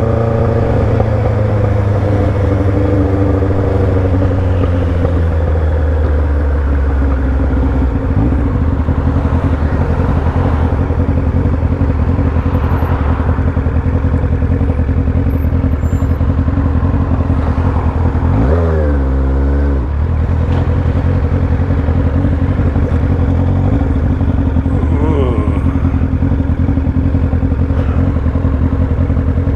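Motorcycle engine running under way: its pitch falls over the first several seconds as it slows, holds steady, then rises and drops quickly in a brief rev about two-thirds of the way through, with a smaller rev a few seconds later.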